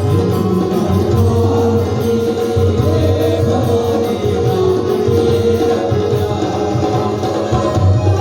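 Devotional bhajan to the Chausath Jogani: voices singing over instrumental accompaniment with a steady low beat, loud and continuous.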